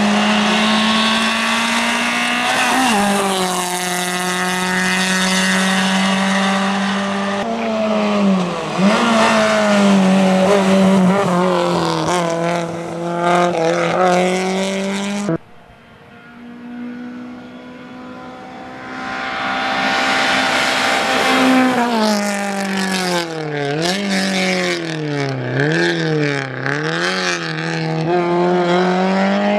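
Skoda Favorit rally car's engine running hard at high revs, with short drops in pitch at gear changes. About halfway through the sound cuts off suddenly and comes back quieter, building up again, then the revs swing rapidly up and down several times.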